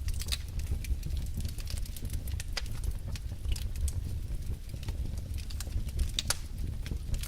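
Wood fire burning in a fireplace: logs crackling with frequent sharp pops and snaps over a steady low rumble of the flames.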